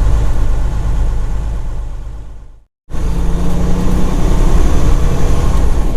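Semi truck's engine and road noise heard inside the cab, a steady low drone. It fades out about two and a half seconds in, drops to silence for a moment, then comes back abruptly at full level.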